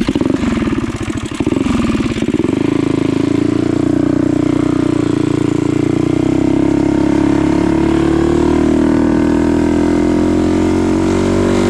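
Small four-stroke mini bike engine pulling away and running hard at high revs, its pitch creeping slowly upward as the bike gathers speed.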